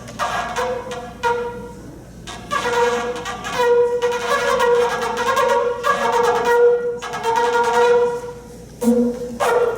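Shofar blown in a series of held notes of varying length, with short breaks between them.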